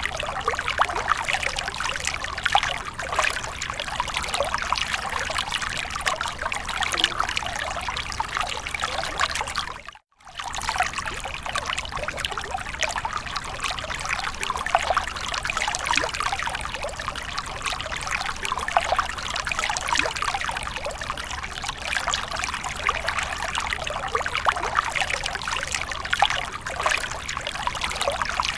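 Water splashing and trickling continuously, a dense patter of small splashes, with a brief cut to silence about a third of the way through.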